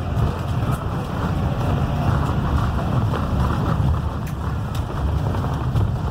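Blue Bird Vision school bus driving, its Cummins B6.7 diesel engine and road noise making a steady low rumble, with a few light clicks and rattles.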